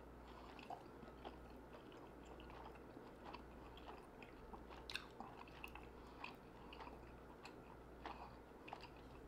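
Close-miked faint chewing of food with the mouth closed: soft, irregular mouth clicks and smacks, with no words.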